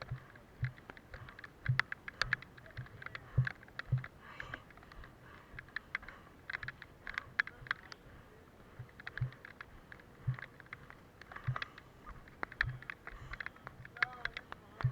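Footsteps on a forest floor: uneven thuds about one or two a second, with the crackle of leaves and twigs underfoot.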